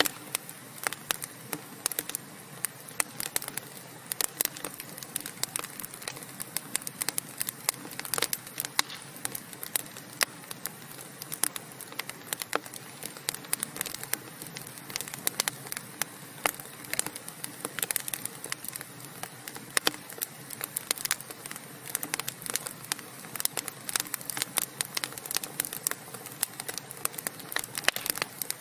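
Wood fire burning in a fireplace, with irregular sharp crackles and pops over a steady soft hiss of the flames.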